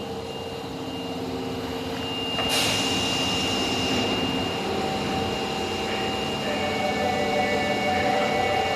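Osaka Metro Tanimachi Line 22-series subway train running. About two and a half seconds in there is a sudden sharp hiss of air, and steady whining tones follow that slowly rise in pitch near the end.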